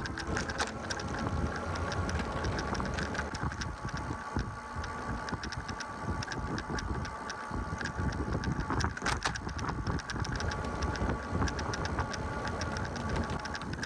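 Riding an e-bike: rapid, steady ticking of the rear freewheel as the bike coasts, over a low rumble of tyres and wind on the microphone. A single knock about nine seconds in, like the bike going over a bump.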